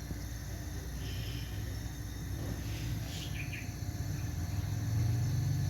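Low steady hum of a Panasonic NR-BQ211NS refrigerator's non-inverter compressor running and pumping refrigerant, growing a little louder near the end. A few faint bird chirps about three seconds in.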